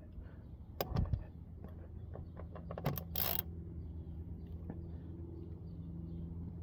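Scattered metal clicks and clinks of a wrench tightening the oil drain plug on a Tohatsu 30 hp four-stroke outboard motor, over a steady low hum. A short rustle comes about three seconds in.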